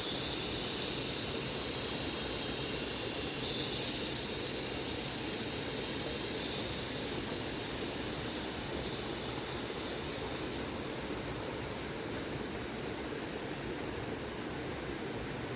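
Steady outdoor hiss, a rushing noise strongest in the high range, that shifts abruptly in level three times.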